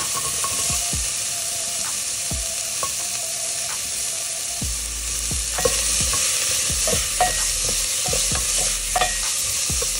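Onions and cut amla (Indian gooseberry) pieces sizzling in hot mustard oil in a steel pressure cooker. A steady hiss runs under scattered knocks as a spatula stirs against the pan.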